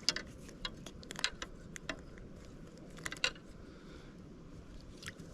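Handling noises while a freshly caught crappie and the fishing gear are handled: scattered light clicks and rattles, with small clusters of sharper ticks near the start and about three seconds in.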